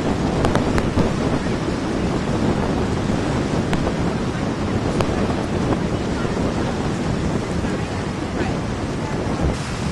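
Strong wind buffeting the microphone: a loud, steady, rumbling rush with a few faint clicks.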